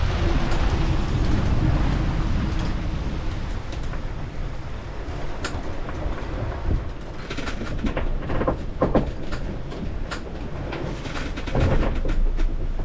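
Wind and water rushing past a sailing yacht running fast down big waves, a steady rushing noise with scattered knocks and creaks from the boat.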